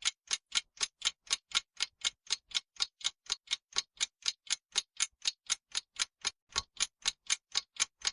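Clock-like ticking of a countdown-timer sound effect, about four even ticks a second, marking the time left to answer a quiz question.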